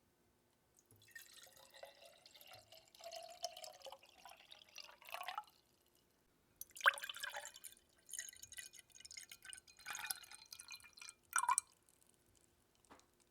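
Water dripping and trickling close to the microphone, in irregular bursts with short pauses between, the sharpest splash about seven seconds in.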